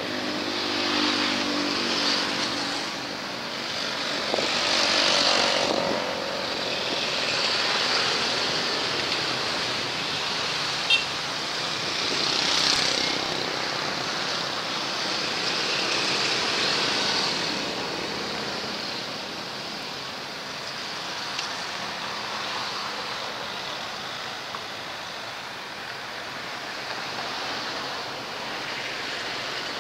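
Container freight train rolling past at a distance: a steady rumble and hiss of steel wheels on rails that swells and fades as the wagons go by. The diesel locomotive's engine hum fades out in the first couple of seconds, and there is one sharp click about eleven seconds in.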